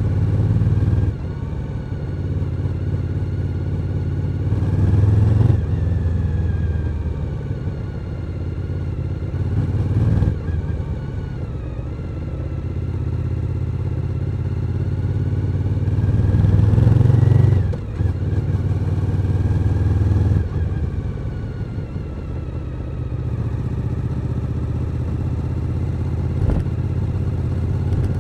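Suzuki SV1000's V-twin engine on the move, with the revs building and then dropping off sharply several times. The loudest pulls come a few seconds in and about two-thirds of the way through.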